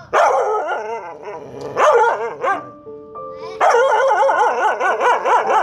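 A dog giving long cries that waver up and down in pitch, in three bouts, over background music with held notes.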